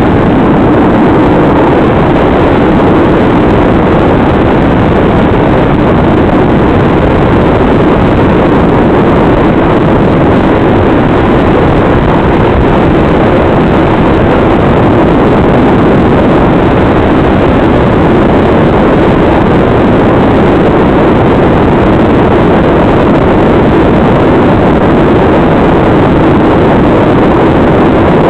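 Loud, steady hiss of static from an analog FPV video receiver's audio channel, unchanging throughout and cut off above the mid treble. The uploader puts the 'bad noise' down to the goggles' receiver sitting too close to a 433 MHz Dragonlink control transmitter.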